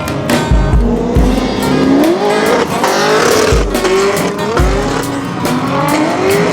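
Drift cars revving, engine pitch rising again and again, with tires squealing briefly about three seconds in, mixed with background music carrying a heavy bass beat.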